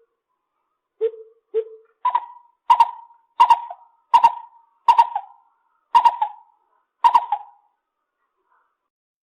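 Lesser coucal calling: two low hollow notes, then a series of seven higher, ringing hoots about two-thirds of a second apart.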